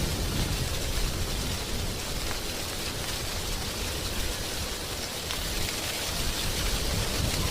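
Wind blowing through dry tree leaves, a steady rustling hiss with faint crackles.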